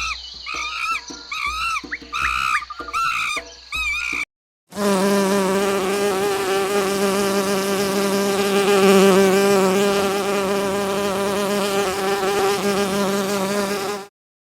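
A run of short, squeaky animal calls that rise and fall in pitch, then after a brief gap a flying insect's steady buzz with a low hum, lasting about nine seconds and cutting off suddenly near the end.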